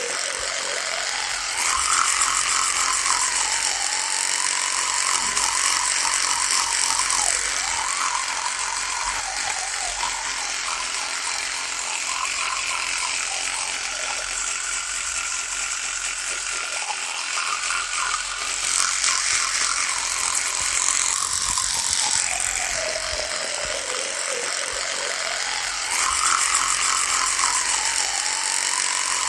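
Electric toothbrush running with a steady buzz, its pitch drifting slowly up and down. It gets louder in stretches of several seconds, about two seconds in, again after about eighteen seconds and near the end.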